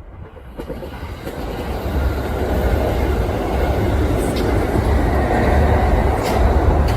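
Kintetsu electric train passing at speed, building from faint to a loud steady rumble over about two seconds, with a few sharp clicks from the rail joints.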